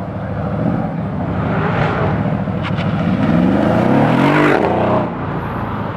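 Car engine accelerating hard, its pitch rising for about two seconds before it cuts off sharply about a second before the end.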